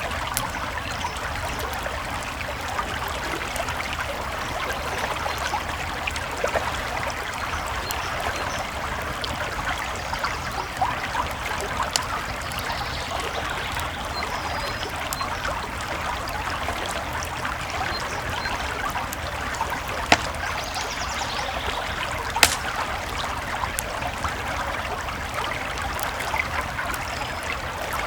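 A creek flowing steadily, with the occasional sharp pop of a crackling campfire; the two loudest pops come about two-thirds of the way in.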